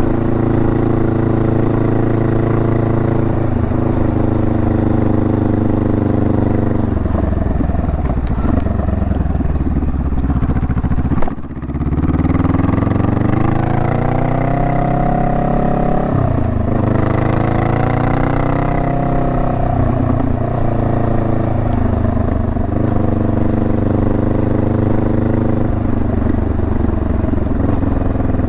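Honda Rebel 500's parallel-twin engine running under way, its revs rising and falling with the throttle. About a third of the way in the engine note breaks off briefly with a click, then the revs climb steadily again.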